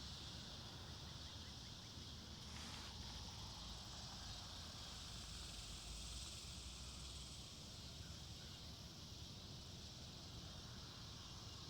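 Faint, steady high-pitched chorus of insects in the woods, with a low rumble of wind on the microphone. A brief rustle about two and a half seconds in.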